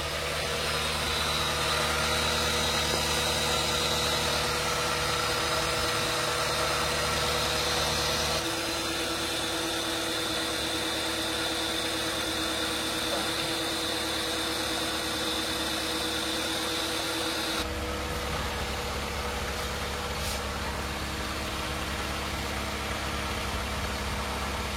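Honda Civic Ferio's four-cylinder engine idling, run to check a freshly rebuilt power steering rack for leaks. A steady whine runs over the idle and changes pitch twice, about a third and two thirds of the way through.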